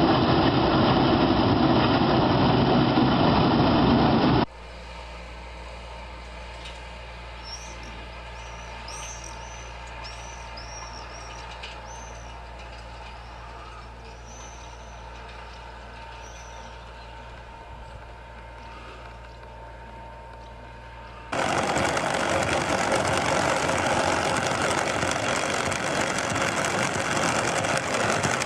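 Heavy machinery running in three cut-together stretches: loud steady machine noise, then a sudden drop to a quiet low engine hum with a few short high chirps, then loud steady machine noise again about three quarters of the way in.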